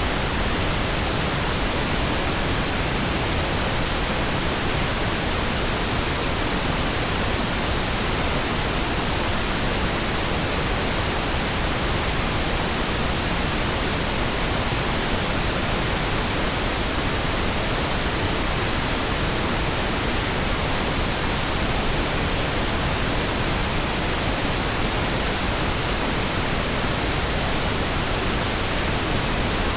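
Synthetic pink noise: a smooth, even hiss spread across all pitches, steady with no changes.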